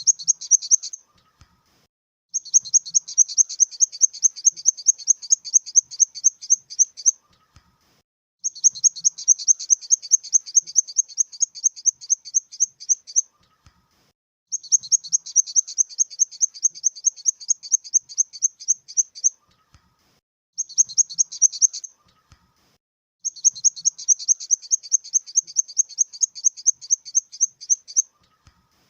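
Grasshopper stridulating: high-pitched, rapid pulsed chirping trills, each several seconds long, repeating with short silent pauses between them.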